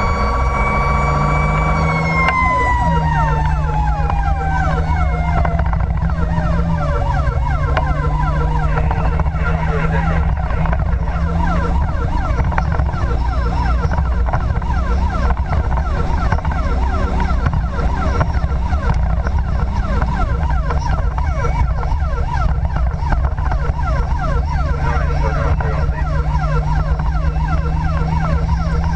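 Fire engine running with sirens over the truck's low engine drone. One steady siren tone begins falling in pitch about two seconds in and winds down over about seven seconds, while another siren sweeps rapidly up and down throughout.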